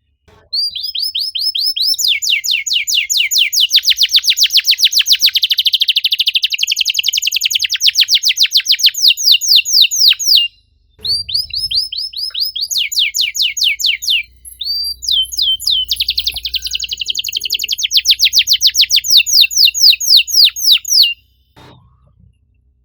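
Domestic canary singing fast, tightly packed trills of rapidly repeated sweeping chirps, the "cuit cuit" rapid-fire song. The trills run in three long phrases with brief breaks between them, and the song ends shortly before the close.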